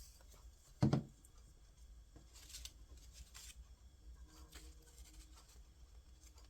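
Handling of paper craft pieces on a table: a single soft thump about a second in, then faint paper rustles as the cut-out leg is put in place.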